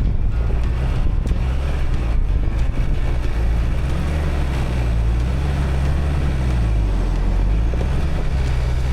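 A motor vehicle's engine running under load, its low note rising and falling, with wind rumbling on the microphone.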